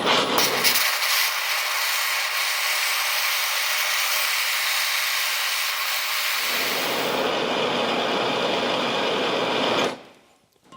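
A handheld heating tool running steadily with a loud hiss while it heats a brake caliper's piston bores to soften the seals. The deeper part of the sound falls away for about five seconds and then returns, and the tool cuts off suddenly about a second before the end.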